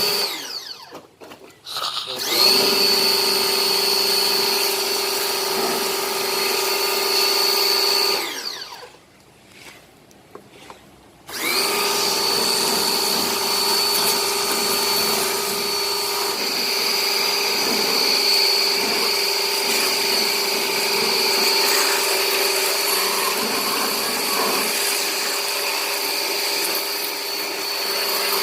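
Small electric motor, like a power tool's, running at a steady speed with a steady whine. It stops a third of the way in and starts up again about three seconds later.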